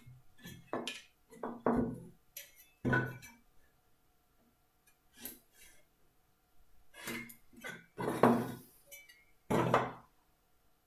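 Hand tools being handled on a workbench while joints are marked out on wood: irregular knocks and metallic clinks as tools are picked up and set down, the loudest ones near the end.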